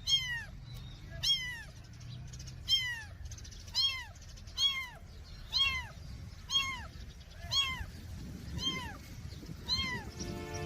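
Domestic cat meowing over and over, about ten short meows roughly a second apart, each rising and then falling in pitch. A low steady hum lies underneath.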